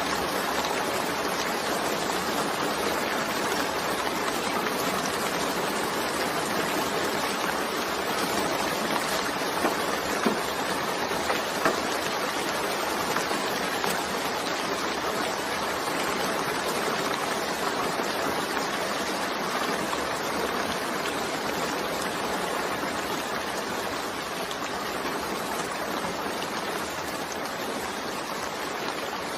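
Steady, dense rainfall: an even hiss of many drops, with a few louder single drop taps about a third of the way through.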